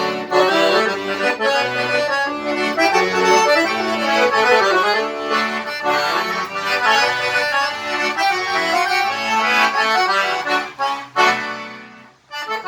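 Accordion played as a test after its collapsed button and key mechanism was taken apart and repaired: a lively tune with melody over held bass chords, ending near the end on a sustained chord that fades.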